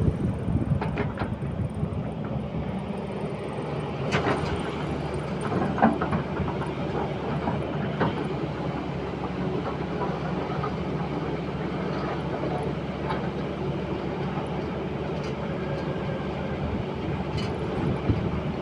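Excavator's diesel engine running steadily under load, with scattered metallic clanks and knocks from the machine working.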